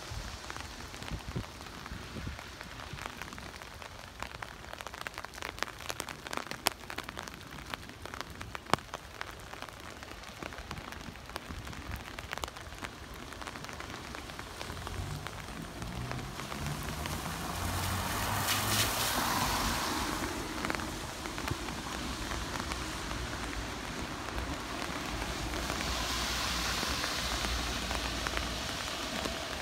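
Heavy rain falling on a wet street, with many sharp drop ticks in the first half. From about halfway, vehicles pass on the wet road: a rising engine tone, then tyre hiss swelling twice.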